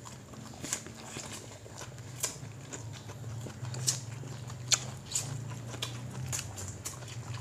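People chewing and lip-smacking while eating rice and fish by hand: irregular wet clicks from mouths and fingers, over a steady low hum.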